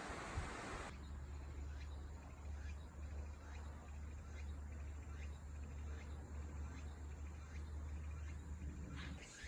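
Faint outdoor ambience: short rising chirps, about two a second, from a small animal over a steady low rumble. A hiss at the start cuts off abruptly about a second in.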